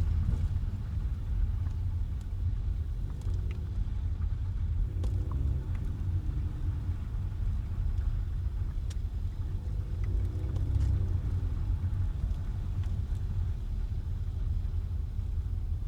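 Car driving on wet, slushy city roads: a steady low rumble of tyres and engine, with a few faint ticks, swelling slightly around ten seconds in.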